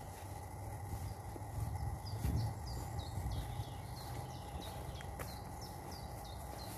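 Small birds calling with quick, repeated short chirps that each fall in pitch, several a second, over a low rumble that swells about two seconds in.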